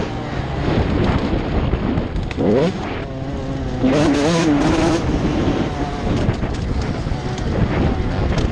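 Motocross dirt-bike engines revving, their pitch rising and falling, with a sharp climb in pitch about two and a half seconds in.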